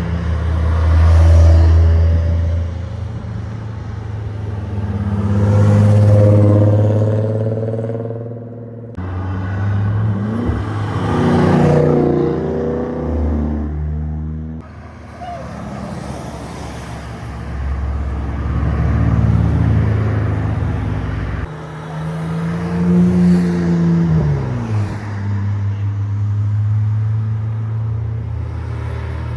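A string of cars driving past one after another, each engine revving up and fading as it goes by, with sudden breaks between some of the passes.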